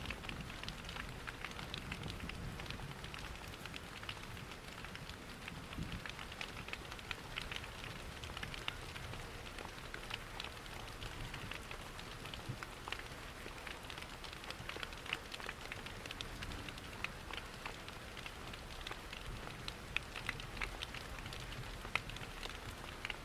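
Steady rain mixed with a crackling wood fire: many small sharp pops and crackles over an even hiss, with a low rumble underneath.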